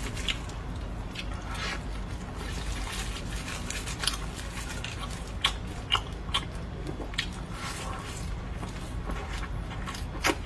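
Close-miked eating: biting and chewing a pan-fried chive pocket, with crisp crunches and wet mouth smacks scattered irregularly.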